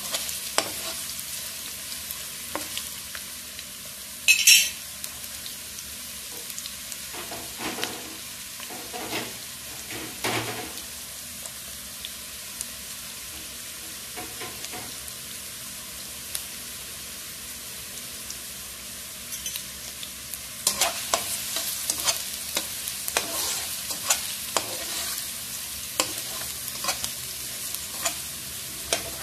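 Minced onion, ginger and garlic sizzling in hot ghee in a nonstick wok while a spatula stirs and scrapes them, the aromatics being sautéed until fragrant. A brief loud burst of noise comes about four seconds in, and the stirring strokes come thick and fast in the last third.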